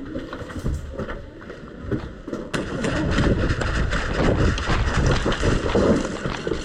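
Footsteps of a person running, a quick, irregular run of thuds that grows louder and busier about two and a half seconds in.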